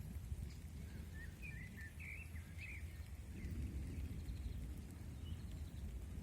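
A small bird chirping, a quick run of short high calls starting about a second in and lasting about two seconds, over a steady low rumble.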